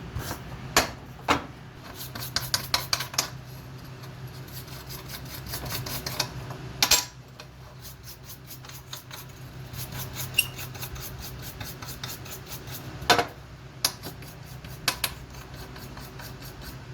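Metal clinking, knocking and scraping, with sharp knocks about 7 and 13 seconds in and bursts of quick ticks between. A low steady hum runs underneath.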